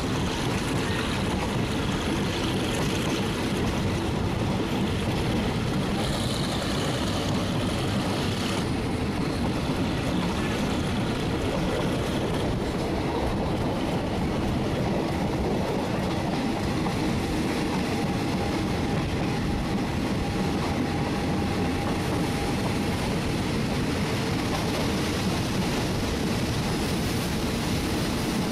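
Passenger train carriage running along the track, heard from an open window: a steady rumble of wheels on rail with a rush of passing air.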